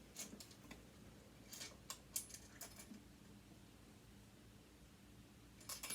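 Faint, scattered clicks and taps of a small tool and metal sewing-machine parts being handled, a few in the first three seconds and a short cluster near the end.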